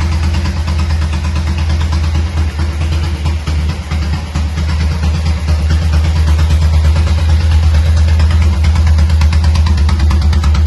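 1951 Horex Regina motorcycle's single-cylinder four-stroke engine idling with a rapid, even beat; it wavers a little a few seconds in, then runs slightly louder and steadier.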